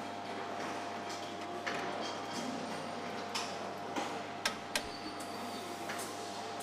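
Assembly-line machinery humming steadily under a noisy haze, with a handful of sharp metallic clicks and knocks, the loudest about halfway through.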